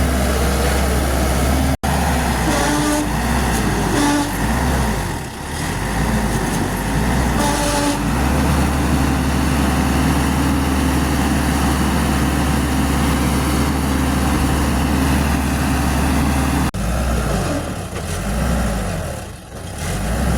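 Heavy diesel engines of an excavator and a bulldozer running hard with a deep steady drone, the engine note rising and falling now and then as they work. The sound breaks off for an instant twice, once near the start and once near the end.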